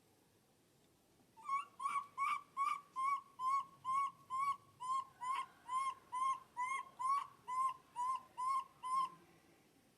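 A bird calling a long series of about twenty short, evenly spaced notes, close to three a second, starting a second and a half in and stopping near the end.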